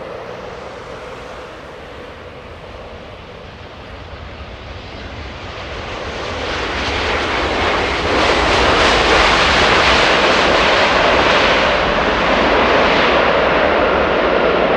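Boeing 787-9 airliner's jet engines, a rumble that swells into a loud roar about halfway through and holds there as the plane passes close.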